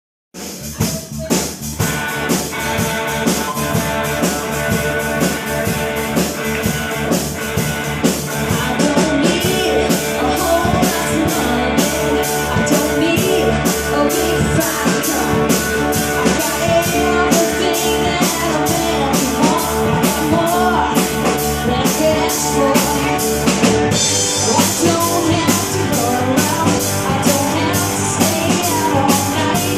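Live rock band playing, with a drum kit beating steadily under electric guitar. The music starts abruptly right at the beginning, and the deep bass thins out about 24 seconds in.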